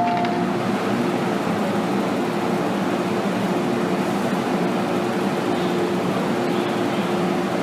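Inside an MTR M-Train car: the last note of the door-closing chime ends about half a second in. Then comes steady cabin noise with a constant electrical hum from the train's equipment.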